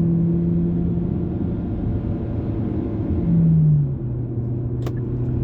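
Car engine and tyre noise heard from inside the moving car on a highway: a steady low hum that swells briefly and then settles to a lower pitch about four seconds in.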